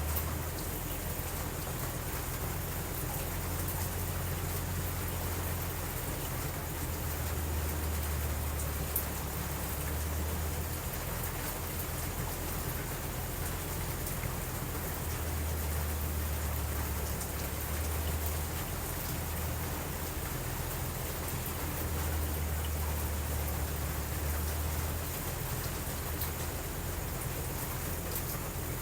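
Steady rain, with a low rumble underneath that swells and eases every few seconds.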